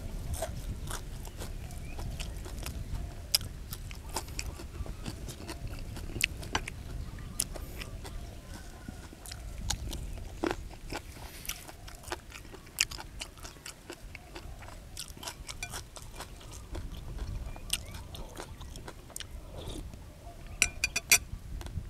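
Close-up chewing and crunching of a person eating, with many irregular sharp mouth clicks and crunches and a burst of louder ones near the end.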